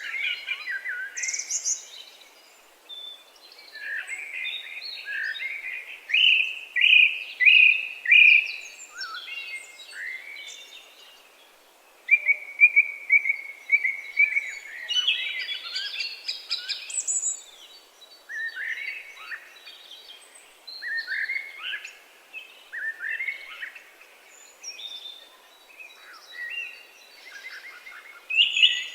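Several songbirds singing and calling, a steady chorus of short chirps and quick repeated notes.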